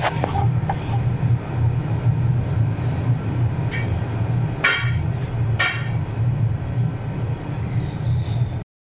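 Engine hoist rolling across a concrete floor as a freshly removed LS engine is pulled out, a steady rough rumble with two short squeals about five and six seconds in. It stops abruptly near the end.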